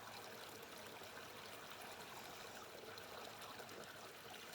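Mountain brook babbling, a soft, even rush of flowing water.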